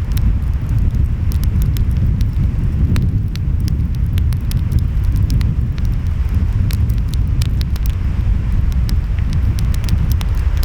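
Wood fire crackling with frequent sharp pops, over a steady low rumble of waves and wind.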